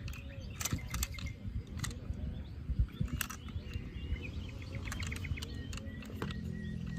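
Scattered sharp clicks and knocks over a low rumble, with a few short, high chirps around the middle.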